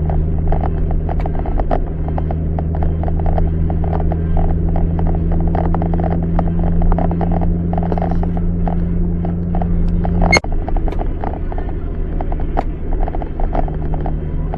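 A car driving, heard from inside the cabin: a steady low rumble and hum with many short irregular ticks. There is one sharp click about ten seconds in.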